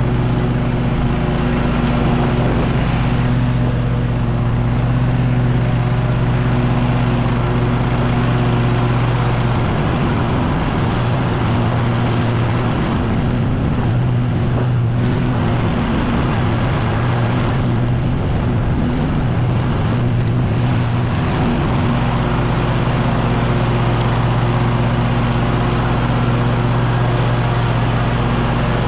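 Echo PB-9010T backpack leaf blower, a 79.9 cc two-stroke engine, running steadily at high throttle. For about twelve seconds in the middle its tone wavers unsteadily before settling back to a steady drone.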